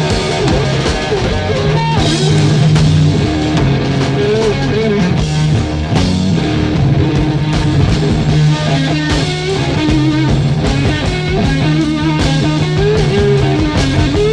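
Instrumental blues-rock: electric guitar playing bending lead lines over bass and drums.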